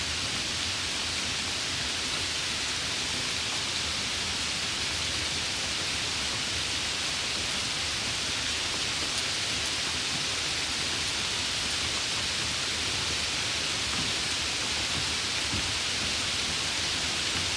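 Steady rain, an unbroken even hiss that holds the same level throughout.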